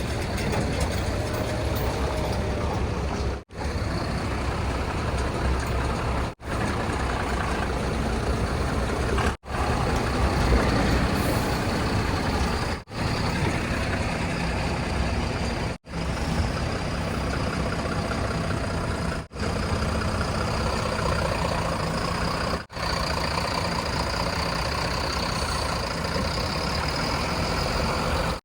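Heavy diesel machinery running steadily, the engines of a backhoe loader and tipper trucks at work. The sound breaks off sharply for a moment about every three seconds.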